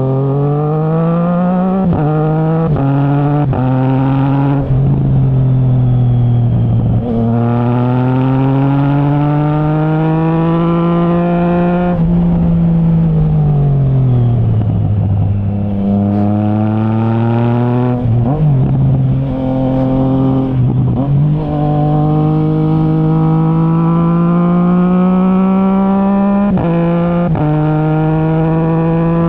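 Triumph Trident 660's three-cylinder engine through a Zard stainless full exhaust with the baffle removed, accelerating hard through several quick quickshifter upshifts at the start. Midway it rises, eases off and drops in pitch as the bike slows, then pulls up through the gears again with quick clutchless upshifts near the end.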